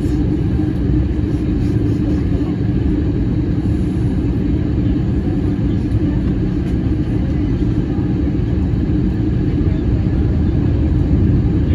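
Airbus A321-200 airliner's engine and airflow noise: a steady rumble with a constant hum that does not rise or fall.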